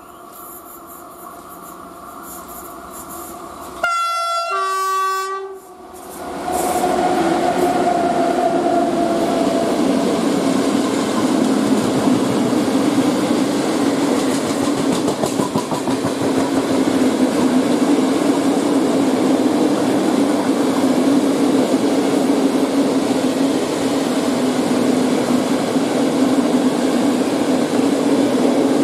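ET22 electric freight locomotive approaching and sounding its horn about four seconds in: two notes, high then lower, about two seconds in all. Its long train of Talbot hopper wagons then rolls past, with a steady loud noise of wheels on rail and clattering over the rail joints.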